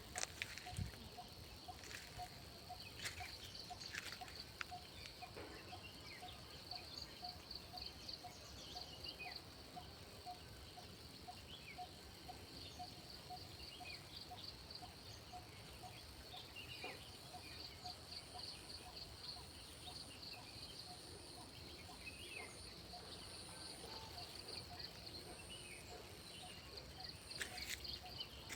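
Faint outdoor nature ambience of insects trilling in repeated pulsed bursts, with a lower call repeating steadily about twice a second and occasional short bird chirps.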